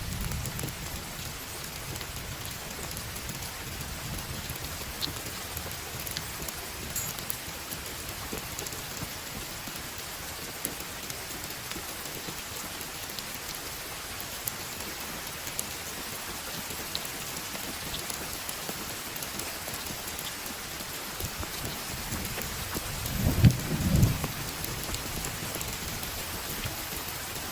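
Heavy rain falling steadily, with scattered drop ticks. Near the end comes a short, loud low rumble with two peaks close together.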